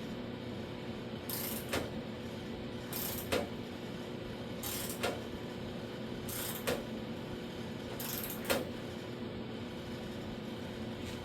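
Socket ratchet cranking a panel flanging tool's knurled wheels along a steel door-skin flange, bending it over. About five strokes come at a steady pace, each a short run of ratchet clicking ending in a sharp click, over a steady background hum.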